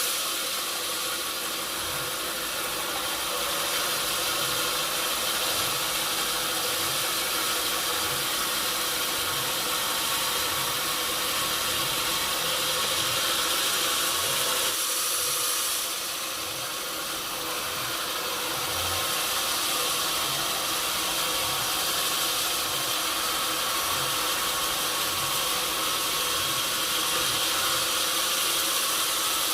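Sawmill machinery running with a steady mechanical noise, easing off briefly about halfway through.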